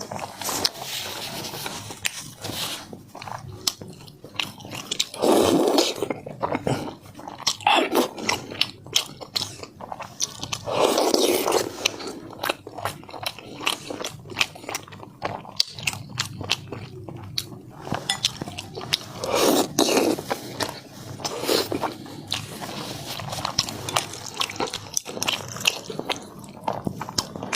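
Close-miked eating of spicy instant noodles: several slurps about a second long among many small wet chewing and mouth clicks.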